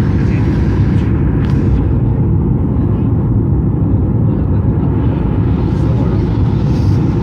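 Steady low roar inside the cabin of a Boeing 737-800 in flight: its engines and the rush of air past the fuselage, heard from a passenger seat.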